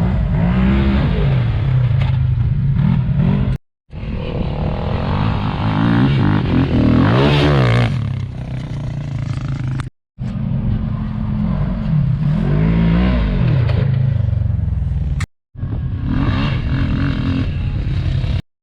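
Side-by-side UTV engine running hard and revving, its pitch rising and falling repeatedly, in several short stretches broken off by abrupt cuts.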